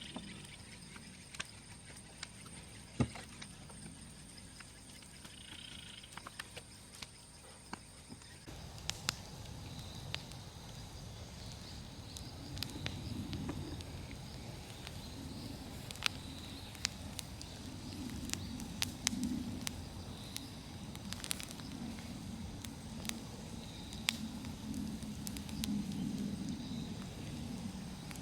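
Large wood bonfire crackling, with scattered sharp pops over the low rush of the flames, which grows stronger about eight seconds in.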